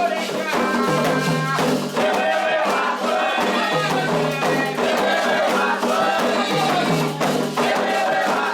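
Candomblé toque for Oxossi and Ossaim: voices singing a chant over steady percussion with a shaken rattle.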